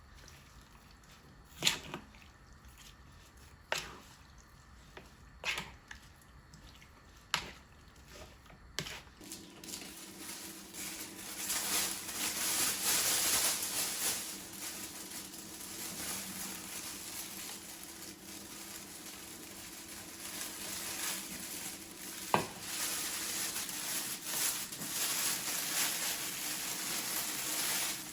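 Kitchen work sounds: sharp separate knocks about every two seconds. About nine seconds in, a steady hiss with a low hum takes over, with a single sharp knock later on.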